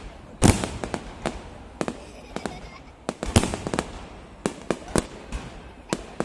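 Fireworks going off, a run of irregular sharp bangs and cracks, some louder than others.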